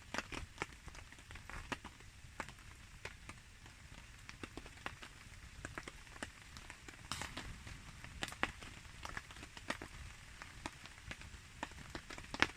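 Rain falling steadily with a campfire burning, a soft hiss broken by many irregular sharp ticks of drops and crackling wood.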